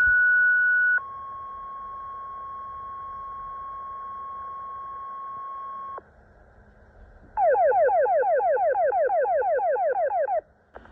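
Fire dispatch alert tones over a radio: a two-tone sequential page, a one-second high tone followed by a lower tone held about five seconds. After a short pause comes a rapid falling warble alert, about nine sweeps a second for some three seconds.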